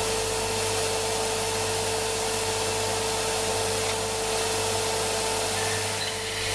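Startrite 401E bandsaw running steadily, a constant hum with one clear steady tone over an even whirring noise.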